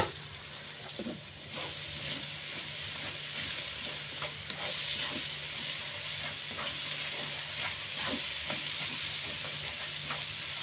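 Spice paste and onion frying in a non-stick wok with a steady sizzle, while a spatula scrapes and taps against the pan as it stirs. One sharp knock right at the start, and a faint low hum underneath.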